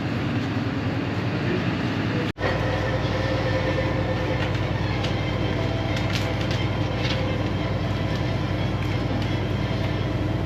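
Steady running rumble of a moving vehicle heard from inside, broken by a brief cut about two seconds in, then continuing with faint higher squeals.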